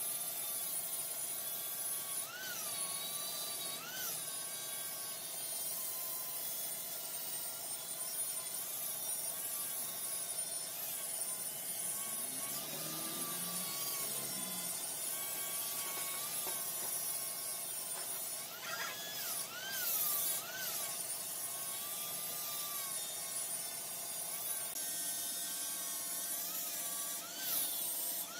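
Large woodworking lathe turning mahogany with a cutting tool on the wood: a steady hiss of cutting with a high whine that now and then wavers up and down in pitch.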